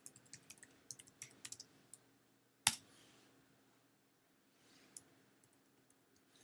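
Clicks from a computer mouse and keyboard: a quick, irregular run of small clicks in the first two seconds, one louder click a little before three seconds, and a soft click around five seconds in.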